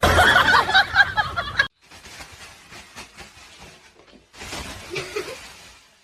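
A person laughing, with short broken bursts, for about the first second and a half; it cuts off suddenly and is followed by faint, scattered sounds.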